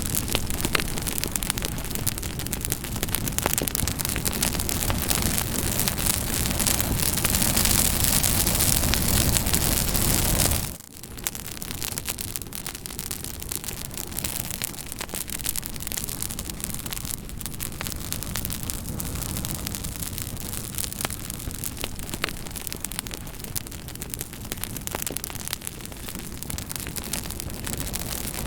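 Campfire crackling: a steady hiss of burning wood full of small snaps and pops. About 11 s in it cuts out for an instant, then carries on a little quieter.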